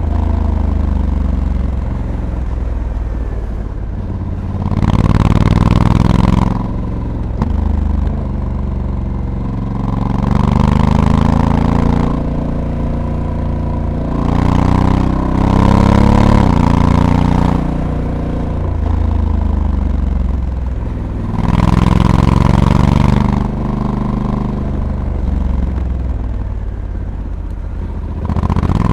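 Honda Africa Twin's parallel-twin engine, heard onboard while riding. It pulls hard in several bursts of a second or two, each with a rise in pitch. Between the bursts it eases back to a quieter, lower run.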